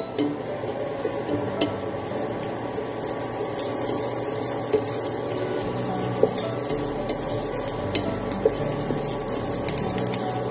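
Diced hotdog, ham and garlic sizzling in a nonstick frying pan while a plastic slotted spatula stirs and scrapes them. The crackle thickens after about three seconds, with a few sharper taps of the spatula on the pan.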